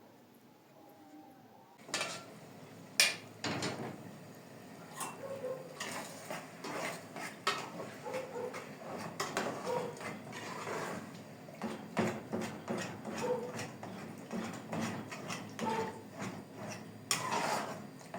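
Dishes, pots and utensils clinking and knocking as they are handled, in a run of small clattering impacts that starts about two seconds in.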